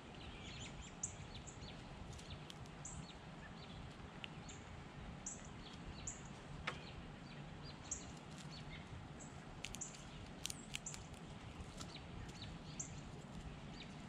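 Small birds chirping, short high chirps repeating every second or so over a steady low outdoor hum, with a few sharp clicks about ten seconds in.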